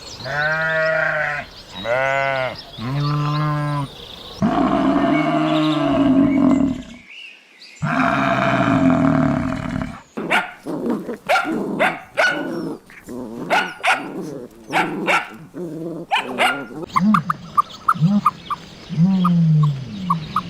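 Several different farm and pet animals calling in turn. First come three pitched calls of about a second each, then two longer calls around a brief gap. These are followed by a quick string of short, sharp barks or yaps, and low calls that dip and rise in pitch near the end.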